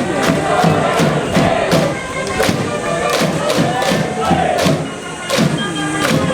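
Cheering section in the stands of a high school baseball game: band music with a steady, quick drum beat and a crowd chanting along.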